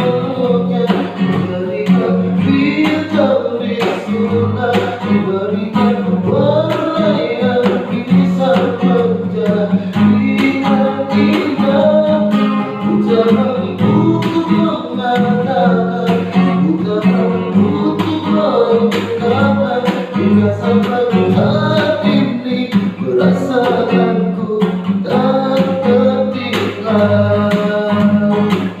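A voice singing a song over a strummed acoustic guitar.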